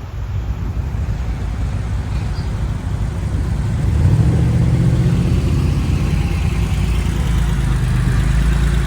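A car engine running as the car drives past at low speed, getting louder about four seconds in as it comes close, then holding a steady rumble.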